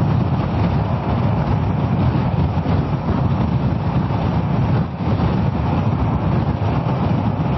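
Riding noise from a Kawasaki ER-6f motorcycle on the move: its 649 cc parallel-twin engine running under a steady rush of wind and road noise, with a brief dip about five seconds in.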